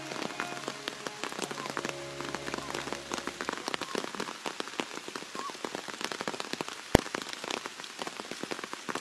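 Heavy rain falling on leaves, rocks and ground, with countless close drops ticking, and one sharp knock about seven seconds in.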